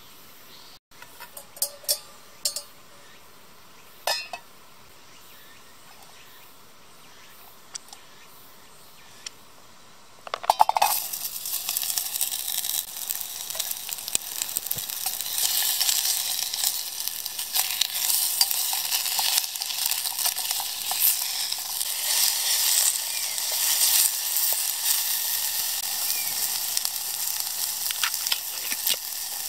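Sliced onions sizzling as they fry in a stainless steel pot on a small camp stove, starting with a metal knock as the pot is set down about ten seconds in. Before that only faint ambient sound with a few light clicks.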